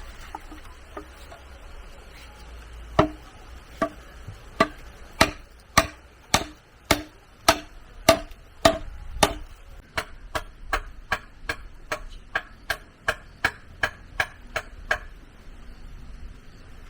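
A tool striking bamboo in a steady series of sharp knocks, each with a short ringing note. They come about one and a half a second at first, then quicker and lighter, about two a second, and stop near the end.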